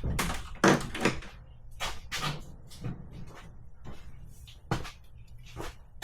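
A series of irregular knocks and clicks from objects being handled, the loudest about a second in and again near the five-second mark.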